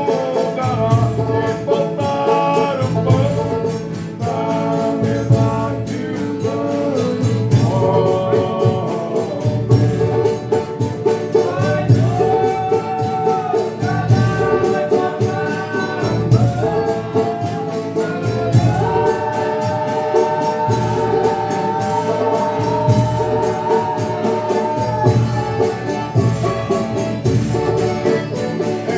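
Folia de Reis company singing a sung thanks in several voices, with long held notes over accompanying instruments and a steady low beat.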